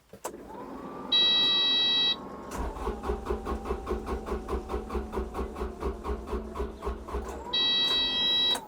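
Kubota digger's diesel engine being cranked by its starter motor, with an even chugging of about four compression beats a second for some six seconds, never catching. A cab warning buzzer beeps for about a second before the cranking and again as it stops.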